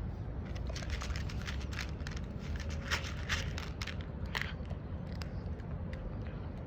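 Street cat crunching dry food: a run of quick, sharp crunches, thickest between about one and four and a half seconds in, over a steady low rumble.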